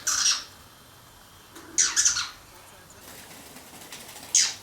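A bird calling three times, with loud, short, high calls about two seconds apart; the last call slides down in pitch.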